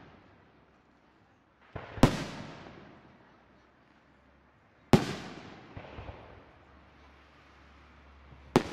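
Aerial firework shells bursting: three loud bangs about three seconds apart, each followed by a long echoing rumble that dies away, with a couple of smaller pops after the second one.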